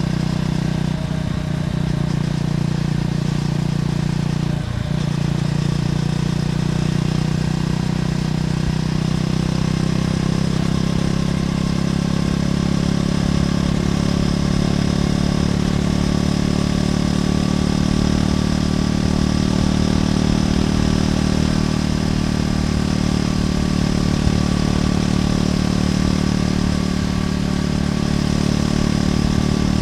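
Triumph Scrambler 400X's single-cylinder engine running through its stock exhaust at a steady pace, with brief dips about one and five seconds in.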